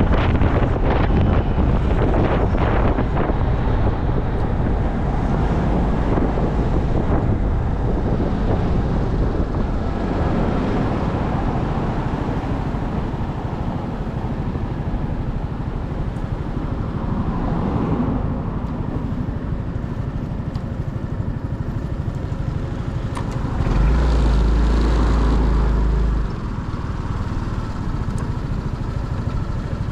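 Motorcycle engine running while riding, mixed with wind noise on the microphone and road traffic. A strong steady low hum comes in for a couple of seconds near the end.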